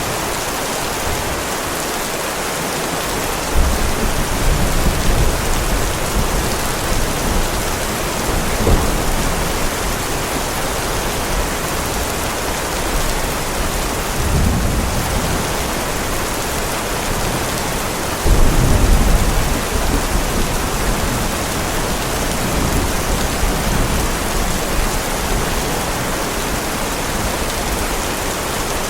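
Steady heavy rain with several rolls of thunder over it. There is a sharp crack about a third of the way in, and the loudest, longest rumble comes about two-thirds through.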